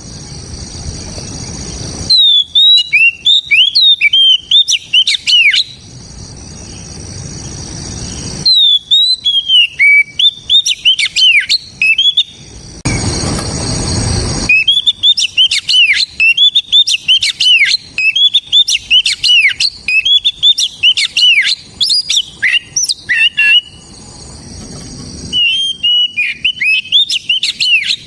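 Oriental magpie-robin (kacer) singing loud phrases of rapid whistled notes that swoop up and down, in runs of a few seconds broken by short pauses. A hiss fills the pauses.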